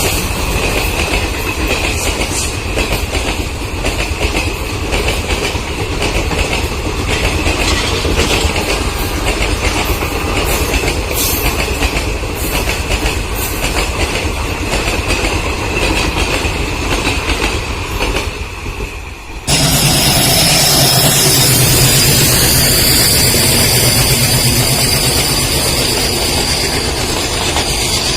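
Railway coach wheels running over rail joints on a passing train: a rapid clickety-clack with a steady high ring from the rails. About two-thirds of the way through it cuts abruptly to another passing train, louder and smoother, with a steady high whine.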